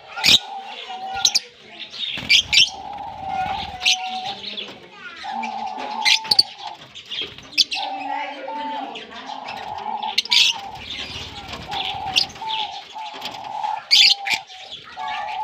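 A colony of Fischer's lovebirds calling: frequent short, shrill chirps and screeches over a steady lower chattering.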